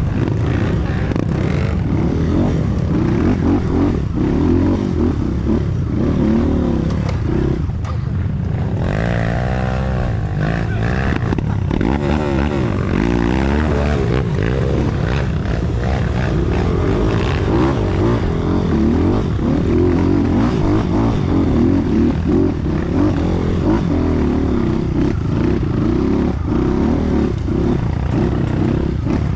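Trail motorcycle engine running while riding off-road, the revs rising and falling around ten seconds in, with rattling and wind noise.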